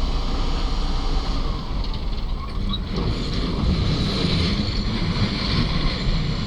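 R32 subway train running at speed, heard from inside the car: a steady rumble of wheels on rail mixed with a rushing, wind-like noise.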